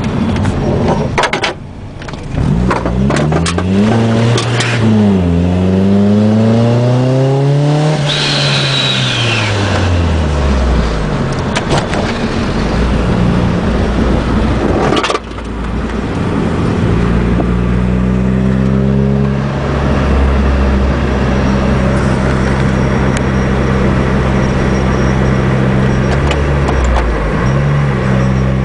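Supercharged 2004 Nissan Sentra SE-R Spec V's 2.5-litre four-cylinder running through a Nismo exhaust under way. It accelerates and lets off several times, with a brief high whine falling away about eight seconds in and a sudden drop in revs about fifteen seconds in. It then pulls up again and holds fairly steady before another quick dip and rise near the end.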